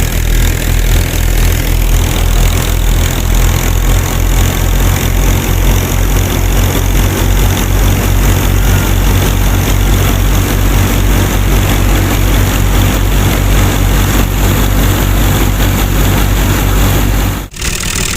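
Small engine running steadily at a fast, even beat, cutting off suddenly near the end.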